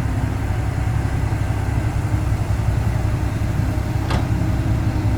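Engine running steadily with a low rumble, and a brief click about four seconds in.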